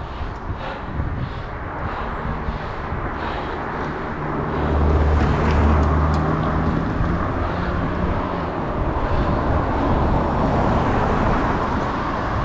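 A motor vehicle passing with a low engine hum that swells about five seconds in and fades over the next few seconds, over a steady rush of wind and road noise.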